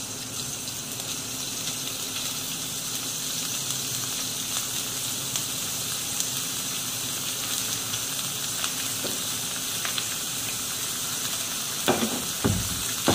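Sliced lemongrass frying in hot coconut oil in a wok: a steady sizzle, with a couple of knocks near the end.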